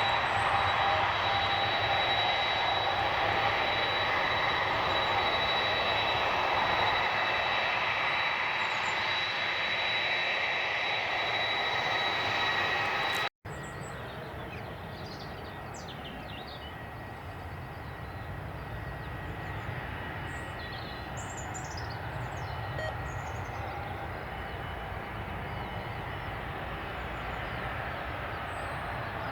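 Airliner's jet engines running loud and steady, with a high whine over the roar. A sudden break about thirteen seconds in leaves a quieter, slowly building aircraft rumble with a few short high chirps over it.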